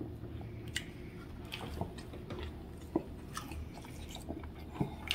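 A person chewing a mouthful of lamb curry rolled in chapati, with scattered small mouth clicks, a few louder ones about three seconds in and near the end.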